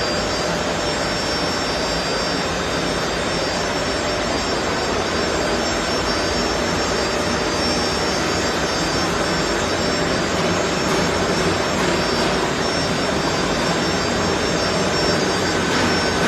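Microwave drying and sterilization machine running: a steady, even whir, with a few faint constant high-pitched tones over it.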